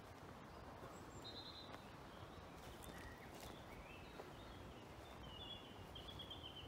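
Faint background quiet with distant small birds chirping and trilling now and then.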